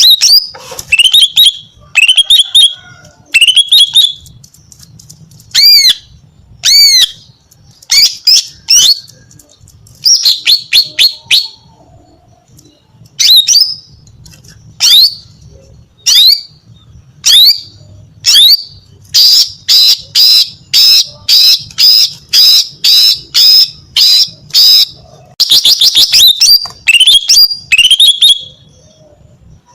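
Female green leafbird (cucak ijo) singing loudly: a string of sharp, whistled chirps and upslurred notes in separate phrases, with a fast even run of about two notes a second in the second half. This is the chattering song of a female in full voice, the kind used to draw a male into answering.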